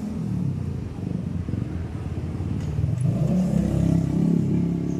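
An engine running, its pitch and loudness rising about halfway through, as when it is revved.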